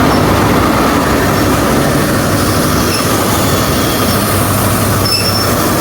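Lagos Red Line passenger train running at speed: a steady, loud rumble of wheels on the rails with a low hum.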